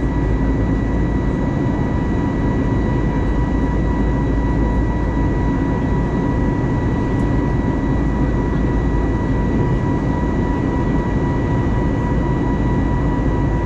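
Airbus A320neo cabin noise in flight: a steady, even rush of engine and airflow noise with a constant high whine.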